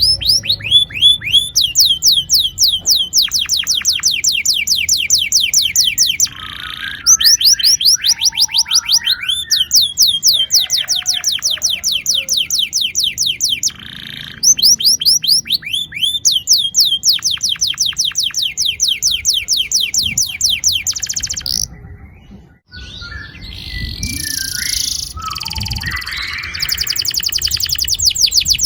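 Domestic canary singing long rolled trills: fast runs of the same high note repeated several times a second, each note sliding down in pitch. The song breaks off briefly about two-thirds of the way through, then resumes with a more varied, busier phrase.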